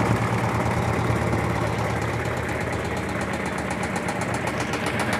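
Electrolux LT13B top-load washing machine running with a steady motor hum; from about three seconds in a fast, even rattle joins it. The noise comes from the drum's suspension.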